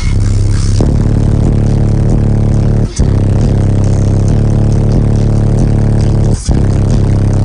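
Bass-heavy music pounding from a semi truck's eight 12-inch subwoofers on 60,000 watts, very loud and dominated by deep bass. The sound drops out briefly twice, about three and six seconds in.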